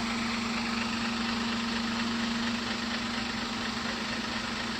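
Heavy diesel engine idling steadily, with a constant low hum over an even mechanical noise.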